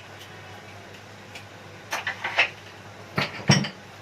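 Kitchen handling sounds as spices are spooned into a pot: a few short taps about two seconds in, then heavier knocks of a spoon against cookware about three and a half seconds in, over a steady low hum.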